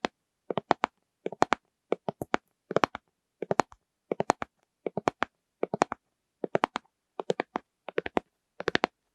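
Tapping on plastic lids in quick groups of three or four taps, one group about every three-quarters of a second, in a steady rhythm with silence between.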